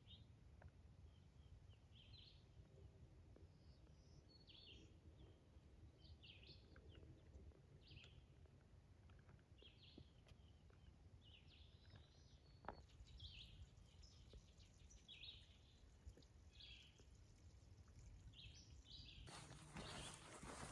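Faint birdsong: short high chirps repeated every second or so over a very quiet background. Near the end a louder rushing hiss sets in.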